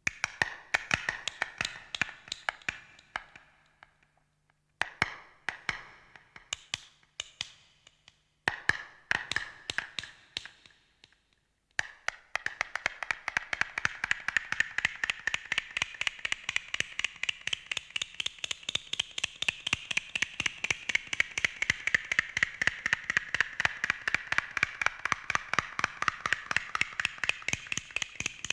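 Prehistoric-style percussion: hard objects struck together in quick, dry taps. It begins as three short runs of strikes, each fading away, and about twelve seconds in settles into a steady fast pulse of about four or five strikes a second.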